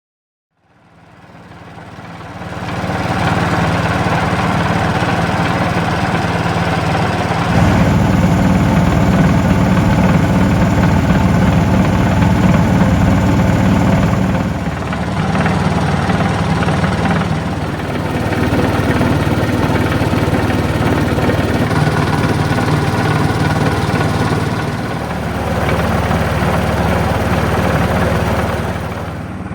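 A small engine running steadily. It fades in over the first couple of seconds, and its note and level shift a few times.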